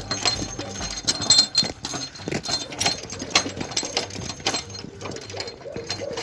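Irregular mechanical clattering: many small knocks and clicks in quick, uneven succession.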